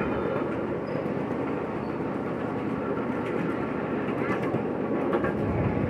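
Ride-on train rolling steadily along the track, with a continuous rumble and rattle of wheels on rails heard from aboard.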